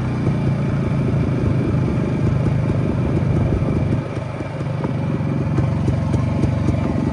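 Jawa 250 type 559 single-cylinder two-stroke motorcycle engine running, dipping briefly in loudness about four seconds in, then settling into an even, regular beat.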